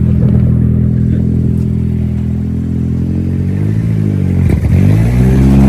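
Turbocharged Nissan Hardbody pickup's engine running hard on a chassis dynamometer at steady high revs; about four seconds in the revs dip with a sharp crack, then climb again.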